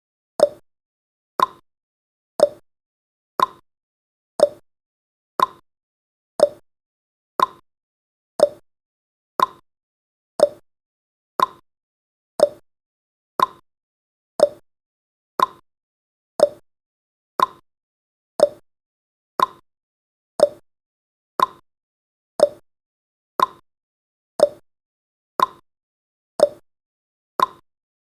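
Countdown timer's sound effect: a short, sharp tick once every second, evenly spaced.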